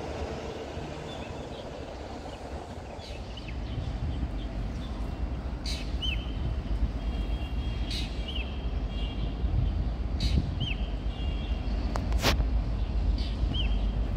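Low rumble of an approaching train hauled by two diesel-electric locomotives, growing louder. A bird chirps over it, short falling calls every couple of seconds, with a few sharp clicks.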